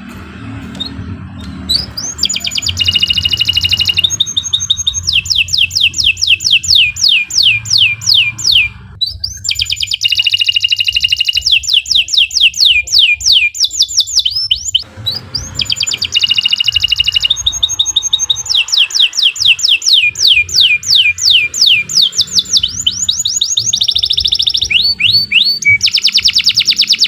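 Domestic canary singing long rolling song phrases: rapid trills of repeated falling whistled notes and fast buzzy rolls, in three long stretches with short breaks about nine and fifteen seconds in.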